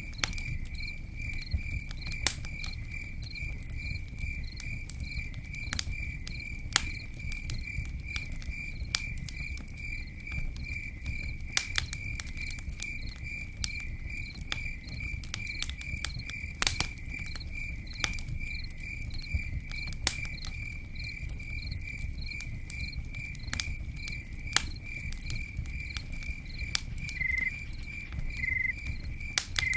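Campfire crackling, with sharp irregular pops over a low rumble, while an insect chirps steadily in an even rhythm of a little under three chirps a second.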